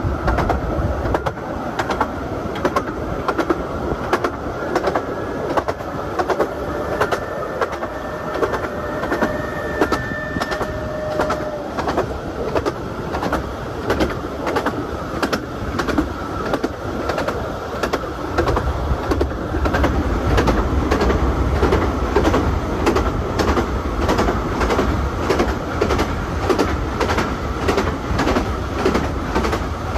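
Miniature 15-inch gauge passenger train running, heard from inside a carriage: steady clickety-clack of wheels over rail joints over a continuous running rumble. A steady high tone sounds for a few seconds about a third of the way in, and the rumble grows louder in the last third.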